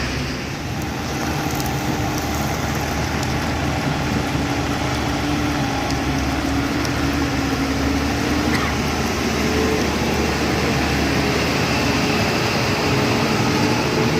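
Heavy vehicle's diesel engine running steadily under a wash of road and wind noise; its pitch sags a little, then rises about two-thirds of the way through.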